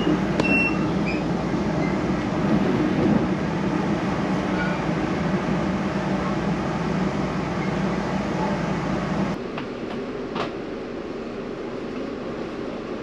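Passenger train running along the line: a steady, dense rumble of wheels and running gear. About nine seconds in it drops suddenly to a quieter, thinner rush.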